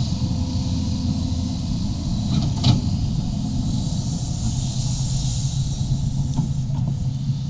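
Sumitomo SH350-HD-5 excavator's diesel engine running with a steady low drone while it digs a trench. There is a sharp knock about two and a half seconds in and fainter knocks near the end, over a hiss that swells in the middle.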